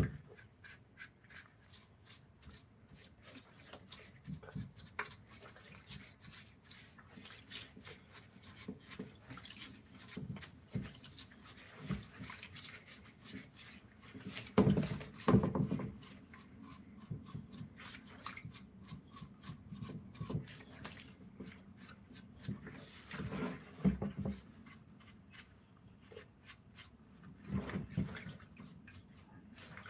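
Hand work on a wooden piece: a steady scatter of light clicks and scrapes, with a few louder knocks about halfway through, again some eight seconds later, and near the end.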